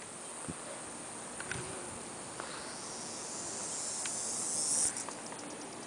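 A high insect buzz swells steadily louder for a couple of seconds and then cuts off suddenly, with a few faint clicks around it.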